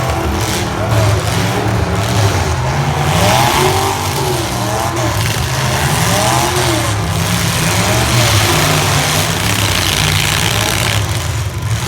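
Several compact pickup truck engines revving together in a demolition derby heat, their pitches repeatedly rising and falling as the drivers accelerate and back off.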